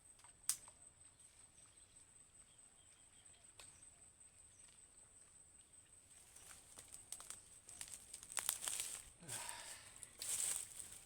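Faint rustling and crinkling handling sounds, with a sharp click about half a second in, growing louder and more frequent over the second half, over a thin steady high whine.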